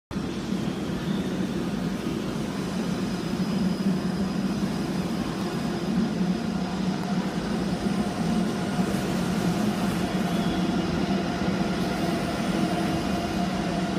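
Steady rumble and hum of trains standing and running under a large station trainshed, even throughout with no single event standing out.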